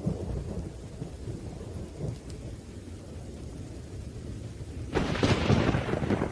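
Thunderstorm: low thunder rumbling under steady rain, then a sudden, louder clap of thunder about five seconds in.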